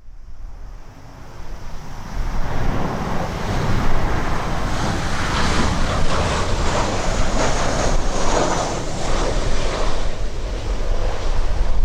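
Jet engine noise of a Boeing 737-800 with CFM56-7B turbofans passing the microphone, building about two seconds in and staying loud, with a faint high whine past the middle. Wind buffets the microphone.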